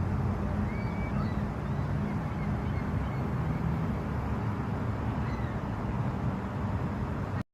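Honda VFR800's V4 engine idling steadily. It cuts off abruptly near the end.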